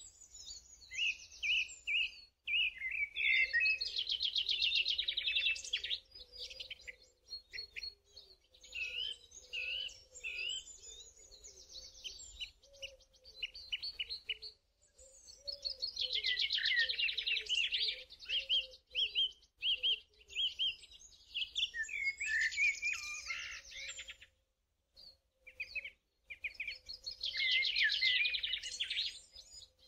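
Birdsong: phrases of rapid, high chirps and trills, each several seconds long, separated by short pauses.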